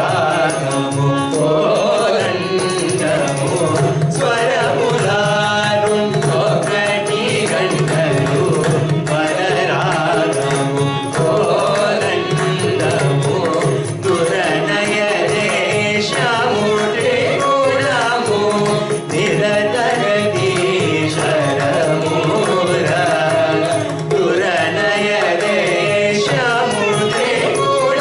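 Carnatic vocal music: singers with violin and mridangam accompaniment over a steady low drone.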